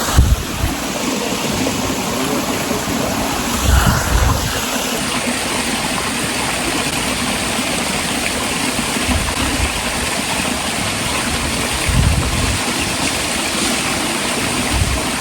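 Waterfall rushing: a steady, even wash of falling water, with a few brief low bumps against the microphone.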